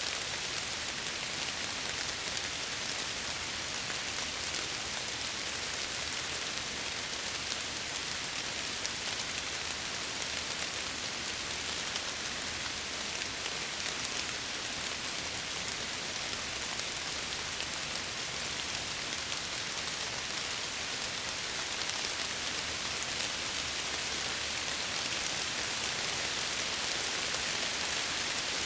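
Steady rain falling against window glass, an even hiss of many fine drops.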